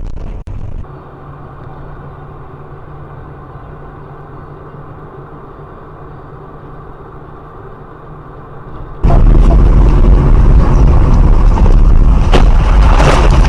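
Dashcam audio of a vehicle on the road: a steady engine hum with road noise. About nine seconds in it switches abruptly to a much louder, distorted rumble with several sharp knocks.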